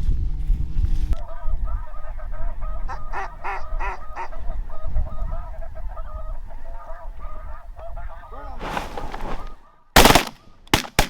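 Honking goose-type calls repeated over and over in a field hunt. Near the end this is cut short by a quick volley of loud shotgun shots, two or three close together.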